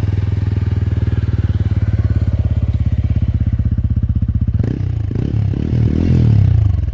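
TVS Ronin's single-cylinder engine idling with an even exhaust thump, then revved in a couple of short throttle blips near the end.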